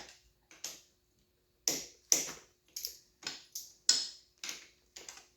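Hand ratchet with a socket clicking in short, irregular strokes, about two clicks a second, while working a bolt on the two-stroke's cylinder head.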